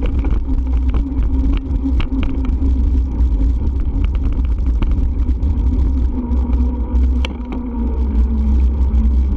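Riding noise from a moving bike: heavy low wind rumble on the microphone, with a steady droning hum that drops slightly in pitch near the end and scattered small clicks and rattles.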